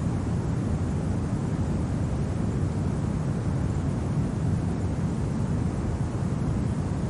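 Steady, low rumbling wind with no distinct events.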